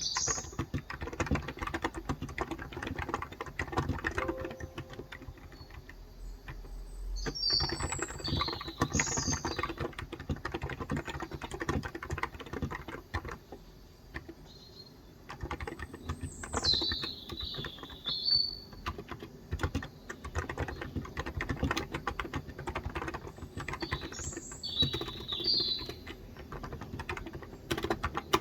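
Typing on a Cox Endeavour electrostatic capacitive tenkeyless keyboard with 35 g switches: a steady run of keystrokes with a couple of short pauses. Birds chirp several times in short bursts.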